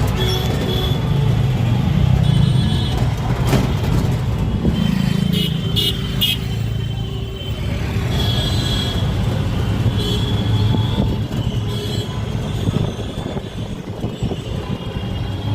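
Busy road traffic with engines running, and short car-horn toots several times.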